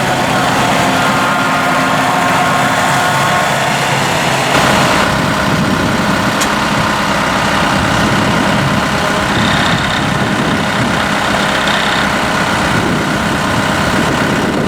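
The four-cylinder turbocharged Kubota diesel engine of a Kubota M5-091 tractor running steadily; about four and a half seconds in, its sound changes and turns noisier.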